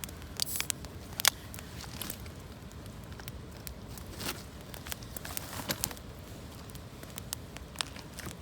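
Irregular crackling and snapping of dry twigs and leaves, with one loud snap about a second in and scattered smaller cracks after.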